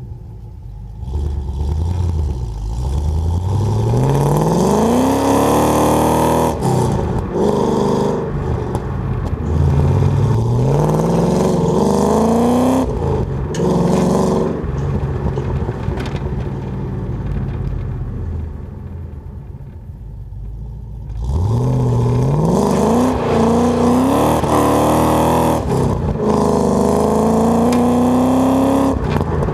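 Holden Commodore VN SS V8 exhaust, heard from the rear number plate, accelerating through the gears: the engine pitch rises, drops back at each gear change and rises again. About halfway through it eases off to a quieter run, then pulls up through the gears again near the end.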